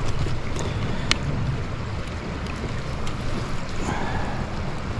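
Steady rush of a flowing trout stream, with a faint click or two about a second in.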